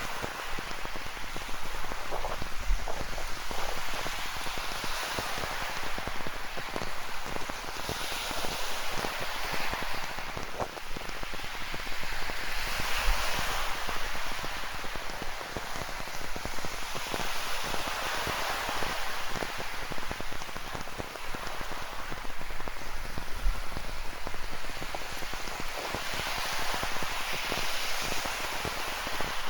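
Rain falling steadily, with a fine patter of drops, over the hiss of ocean surf on a rocky shore. The surf swells and falls back every four to five seconds as waves wash in.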